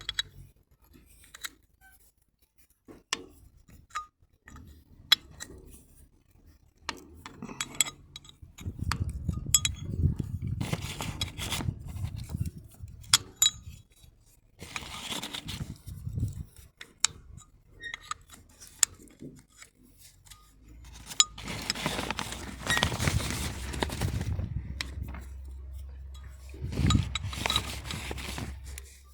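Metal tools and parts clinking, knocking and scraping during hand work on a hydraulic valve: scattered sharp clinks with longer stretches of rattling and scraping. A low hum runs underneath in the second half.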